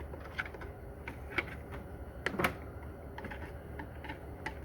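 Scattered light metallic clicks and taps as a hook tool is worked inside a Corvair Powerglide transmission, with a sharper knock about two and a half seconds in.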